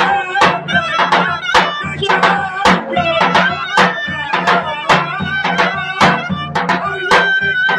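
Traditional Turkish folk music: a sustained melody over a low steady tone, driven by a drum beating a little under twice a second.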